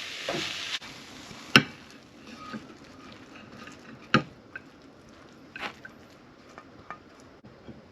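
Frying sizzle that cuts off abruptly under a second in. Then scattered sharp clinks and taps of a utensil on a pan or plate, two of them loud.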